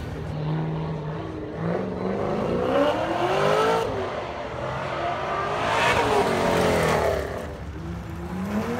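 Sports car engines on an autocross course, climbing in pitch under acceleration and falling back as the driver lifts, several times over, with an abrupt change about four seconds in.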